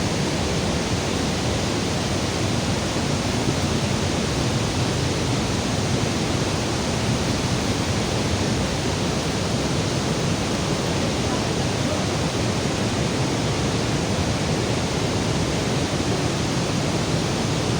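A stream rushing steadily over rocks, a loud, even wash of water.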